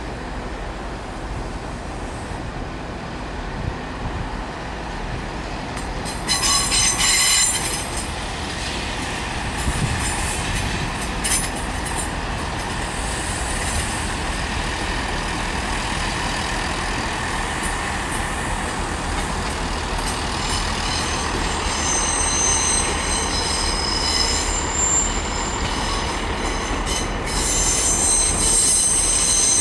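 Train moving along the platform with a steady rumble and its wheels squealing in high shrill tones, a loud burst about six seconds in and the squeal building again near the end.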